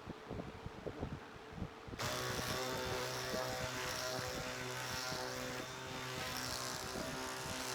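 A few faint handling knocks, then about two seconds in a power polisher's electric motor starts abruptly and runs steadily, a hum with a hiss over it, buffing a high-gloss finish on a wooden table top.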